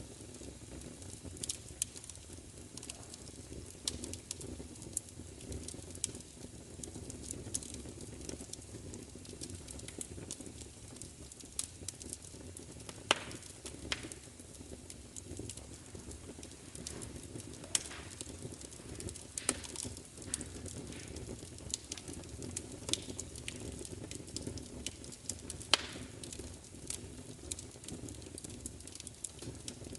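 Wood fire crackling, with irregular sharp pops and snaps over a low, steady rumble; a few pops stand out louder than the rest.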